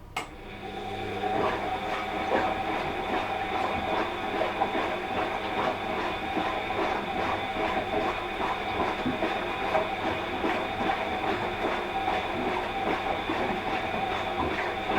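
Washing machine motor and drum running during the wash cycle: a steady whine with fast rattling clicks. It starts with a click and builds up over the first second or so.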